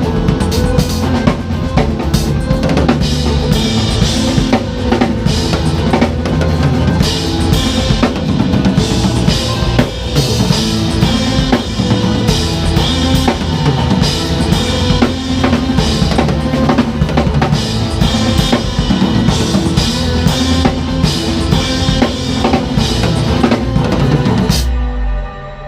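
Drum kit played along to a backing track, with bass drum, snare and rimshot hits over the music. Near the end the drumming stops suddenly and only a quieter held chord from the track goes on.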